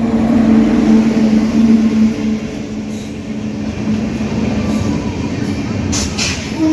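A WAP7 electric locomotive and its train arriving and running past along the platform. A steady low hum is loudest a second or two in, then eases, while the rumble of wheels on the rails carries on, with a couple of sharp clicks near the end.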